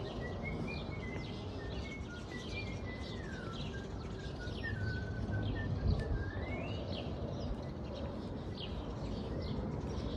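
Small birds chirping again and again, with a thin whistled note that steps down and glides up and down in pitch over the first seven seconds, over a steady low background noise.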